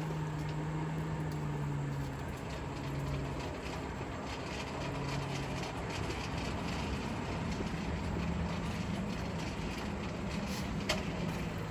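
Blacksmith's forge running while a knife blade reheats in the fire: a steady rushing noise with a low hum that fades in and out. A single sharp metallic clink comes near the end.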